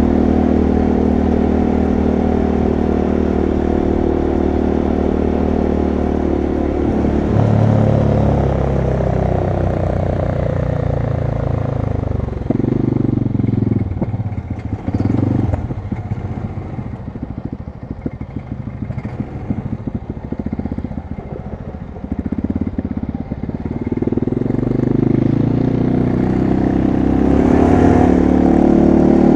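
ATV (quad bike) engine running while riding: steady at first, then throttled back for a stretch in the middle with rattling and clatter, and opened up again near the end.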